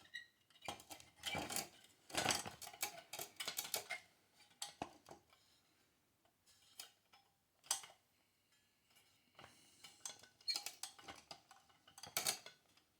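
Small metal parts of a gas water heater's burner assembly clinking and scraping as they are handled while the old thermocouple is taken off. There is a run of clicks and scrapes, then a few quieter seconds with scattered single ticks, then more clinking near the end.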